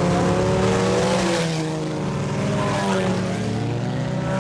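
Several IMCA Sport Compact race cars running hard on the track, their four-cylinder engines overlapping, with pitch rising and falling as they race through the turns.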